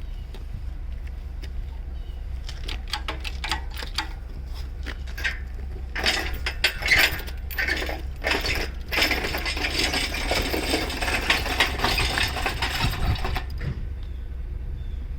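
Metallic clicking and rattling, at first a few scattered clicks, then a dense clatter from about six seconds in that stops shortly before the end, over a steady low rumble.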